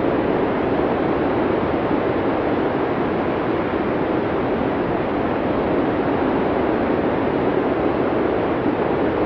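Steady blizzard wind, an even rushing noise centred in the low middle range without gusts or breaks.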